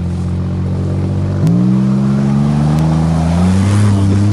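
Car engine running hard; about a second and a half in the pitch jumps up suddenly and then keeps climbing as it revs higher.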